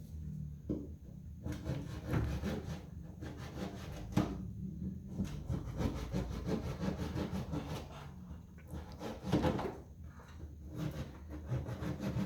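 Hand saw cutting through soft material with irregular rasping strokes.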